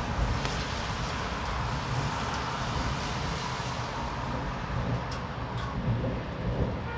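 Steady rain during a thunderstorm, over a continuous low rumble. From about four seconds in, a few sharp drip ticks stand out.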